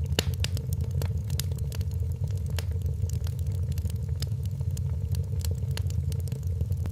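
Wood fire crackling in a fireplace: a steady low rumble of burning with frequent sharp pops and snaps, several a second.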